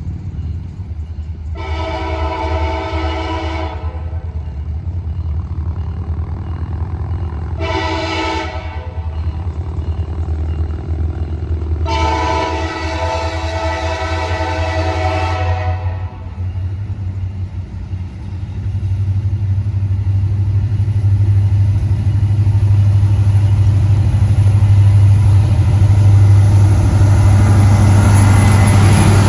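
Diesel locomotive air horn sounding three blasts, long, short, then long, each a chord of several steady tones, over the low rumble of the approaching train. The rumble grows louder in the last third as the locomotive draws near.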